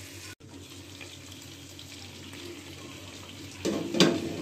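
Chicken pieces sizzling steadily in oil in a pot, with a brief loud clatter near the end.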